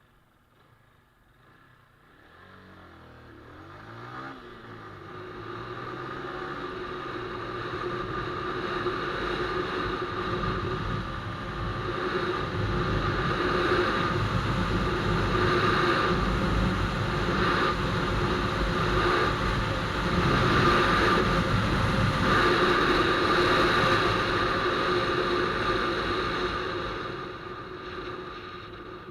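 Romet ZXT 125's single-cylinder 125 cc four-stroke engine accelerating hard from a standstill, revs rising and swelling repeatedly as the bike runs up through the gears toward 100 km/h. It starts about two seconds in, builds steadily louder, and fades again near the end as the run finishes.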